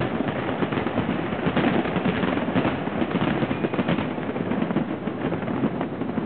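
Fireworks finale barrage: aerial shells bursting in rapid, overlapping bangs and crackles, many reports a second with no break.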